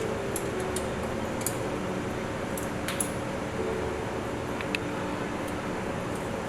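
Scattered small metallic clicks and clinks as screws are undone from the positioning plate of an automatic capsule filling machine, over a steady hum.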